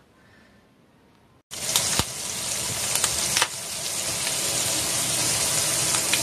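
Asparagus and bacon sizzling in oil in a frying pan: a steady hiss with a few sharp pops, starting abruptly about a second and a half in after a quiet moment.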